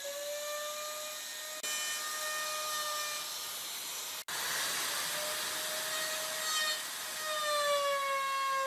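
Electric power tool working wood: a steady high motor whine that wavers slightly in pitch under load, over the hiss of the cutting. It breaks off for an instant about four seconds in.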